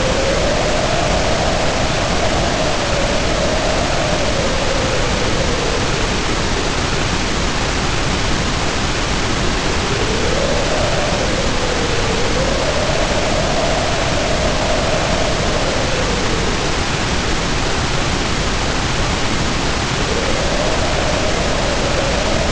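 Storm ambience: a steady hiss of heavy rain with wind howling over it. The howl rises and falls in pitch in gusts that come and go about every ten seconds.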